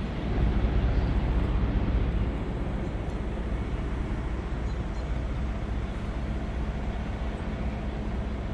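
Heavy diesel engine running steadily at constant speed, a deep rumble with a steady hum, as from the truck-mounted National 1500 series crane.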